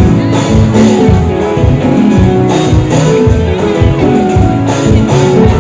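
Loud amplified live band music with a steady beat and a strong bass pulse.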